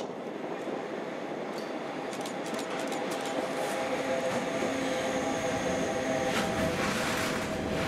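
An electric freight locomotive approaches and passes close by, hauling a train of sliding-wall wagons. It gives a steady whine over rumbling rail noise that grows louder. Near the end the wagons' wheels start to clatter over the rail joints.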